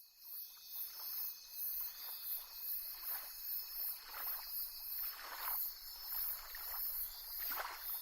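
Insects chorusing steadily at a high pitch, with soft swishes of water coming about once a second.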